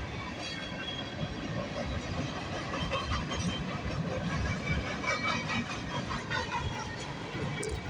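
Freight cars of a Canadian National manifest train rolling past: a steady rumble with the clatter of steel wheels on the rail, and faint high squeals.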